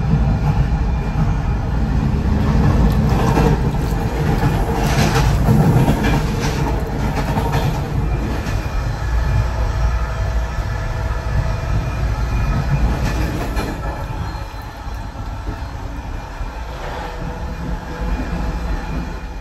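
Running noise of a moving loco-hauled passenger coach heard from inside its toilet cubicle: a steady low rumble of wheels on rail, with a cluster of clacks and rattles about five to seven seconds in. The rumble eases a little after about fourteen seconds.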